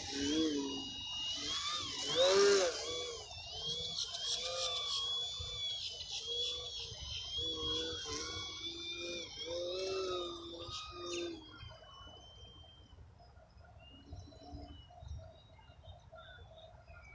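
Electric motor and propeller of a Multiplex Parkmaster 3D RC foam airplane in flight, whining and buzzing with the pitch rising and falling as the throttle is worked. It drops away about eleven seconds in.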